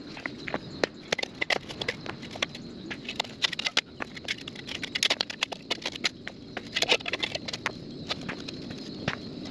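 Rip-rap stones clacking and knocking against each other as they are handled: a run of irregular sharp clacks, busier about three and a half, five and seven seconds in.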